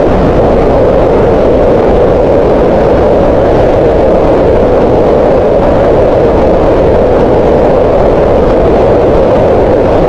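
Green noise: a steady, unchanging hiss with most of its weight in the middle of the pitch range.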